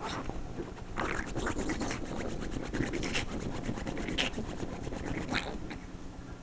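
A person scratching a couch's upholstery: quick, rasping strokes that grow louder about a second in and keep going.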